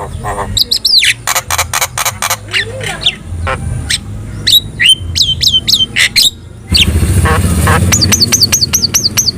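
Javan myna singing a loud, varied song of sharp clicks, harsh notes and whistled glides. Near the end it gives a quick run of about eight repeated up-and-down whistles. A low rumble comes in about two-thirds of the way through.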